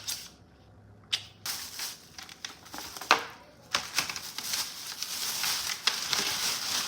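Packaging being unwrapped by hand, crinkling and rustling, with a few sharp snaps in the first three seconds, then near-continuous crackling from about four seconds in.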